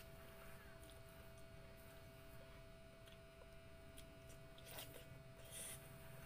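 Near silence with faint chewing of a mouthful of rice eaten by hand, and a couple of short wet mouth smacks near the end, over a faint steady hum.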